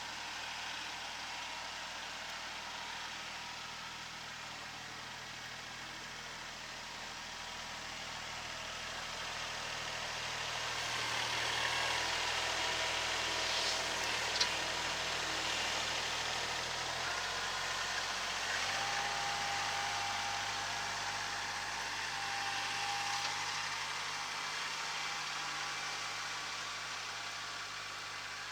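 Kubota SL28H tractor's diesel engine running steadily, its engine note shifting about two-thirds of the way through, under a hissing noise that swells from about a third of the way in.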